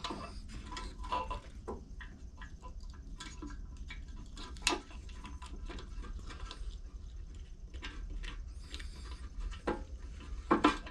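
Small scattered clicks and taps of screws, gasket and a carburetor being handled and fitted to a small lawn mower engine, with a sharper click about halfway through and two more near the end.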